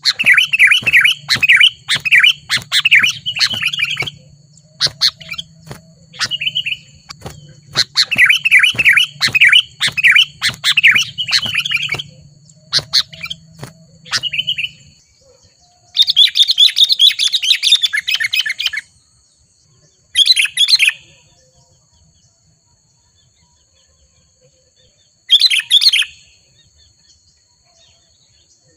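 Sooty-headed bulbul (kutilang) calling in loud bursts of quick chattering notes, packed close together at first, then in separate bursts a few seconds apart. Two faint steady high tones run behind the calls.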